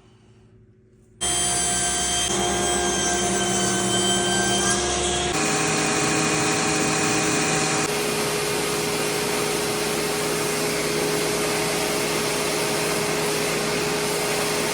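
A woodshop power tool's electric motor switches on about a second in and runs steadily with a whine, its tone shifting slightly twice.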